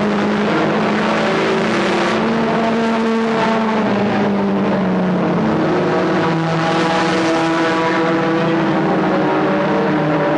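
Several stock car engines running at once on the track, loud and steady, their pitches shifting up and down as the cars lap.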